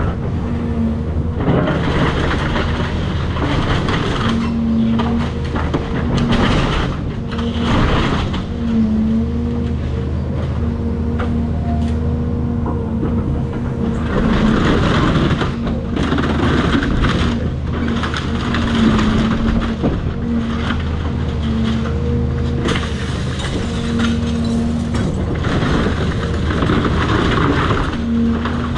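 Cat 336 hydraulic excavator working: its diesel engine runs steadily under load with a steady hydraulic whine that comes and goes, while several bouts of crunching and cracking break out as the house is torn down.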